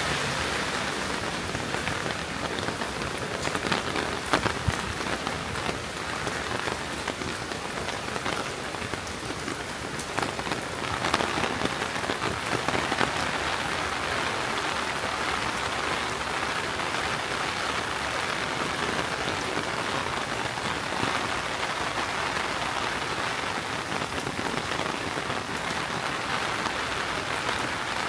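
Steady summer rain falling and pattering on the ground and nearby surfaces, an even, dense hiss, with a few louder close hits around four seconds in and again around eleven to thirteen seconds in.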